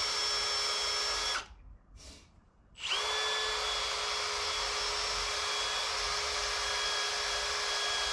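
Electric drill spinning a stripping wheel, its motor running at a steady high whine. It cuts off about a second and a half in and starts up again about a second and a half later.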